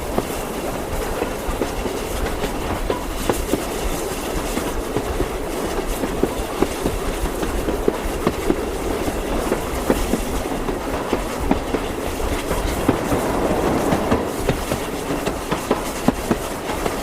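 Train running along the track: a steady rumble with frequent, irregular clicks and knocks of the wheels over the rails.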